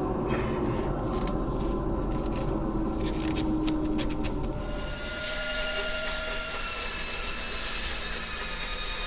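A power tool's motor running steadily, with something rubbing on wood. Its tone sinks slowly through the first half, and about halfway through a brighter, hissing sound takes over.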